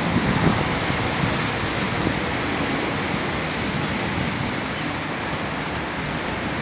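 Steady hum and hiss of a standing passenger train at a station platform, with no distinct events.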